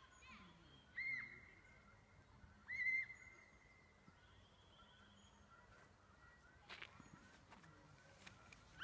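A bird calling outdoors: three short, clear calls, about a second in, near three seconds and at the end. Each call swoops up briefly and then holds one pitch, with fainter calls in the quiet between.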